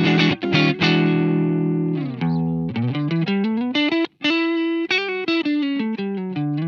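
Telecaster electric guitar played through an EarthQuaker Devices transparent overdrive pedal. A few short chord stabs and a chord left ringing are followed by a riff of single picked notes climbing in pitch, which drop back down near the end.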